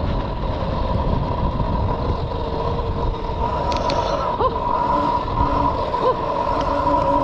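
Mini bike engine running at a steady speed while riding off-road, a constant high engine whine over a low rumble.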